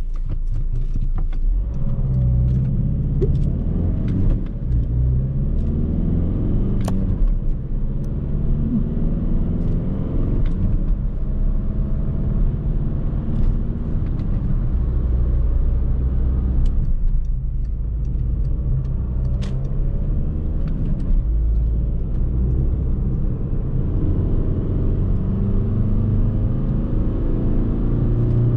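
Škoda Octavia 1.9 TDI's four-cylinder pump-düse turbo-diesel running under way, with tyre and road noise. The engine note shifts a few times and climbs steadily near the end as the car accelerates.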